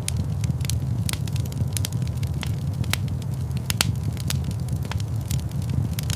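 Log fire crackling steadily, with irregular sharp pops and snaps over a low rumble of burning.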